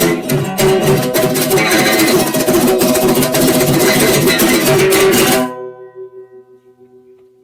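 Guitar music with strummed chords, no singing. It stops abruptly about five and a half seconds in, and the last notes ring on and fade away.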